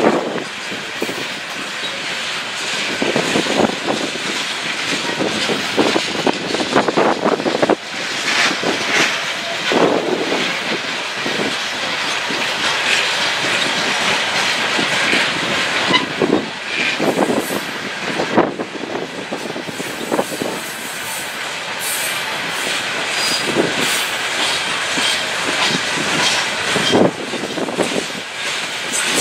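Loaded freight hopper cars rolling past on the track: a steady rumble of steel wheels with irregular clatter over the rail joints.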